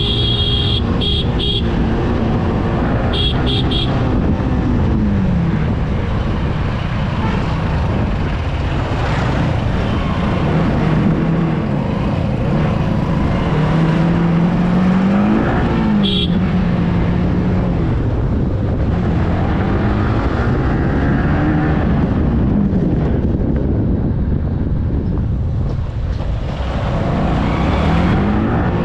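Yamaha R15 V3's single-cylinder engine running on the move, its pitch climbing and dropping again several times as the rider accelerates and eases off, under steady wind and road rush. A short horn toot sounds about halfway through.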